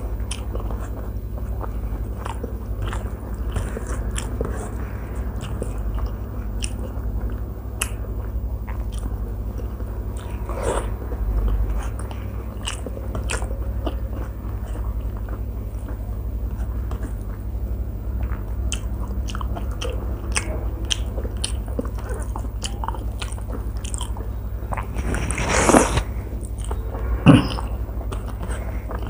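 Close-miked chewing and wet mouth sounds of a person eating with her hand, with many small lip smacks and clicks over a steady low hum. Two louder noises come near the end.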